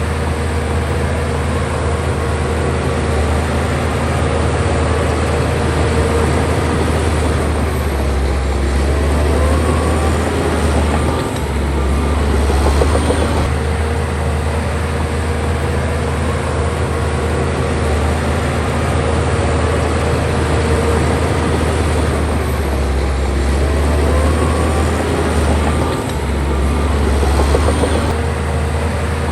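Bulldozer's diesel engine running steadily while working, its note dipping briefly twice, about 11 and 26 seconds in.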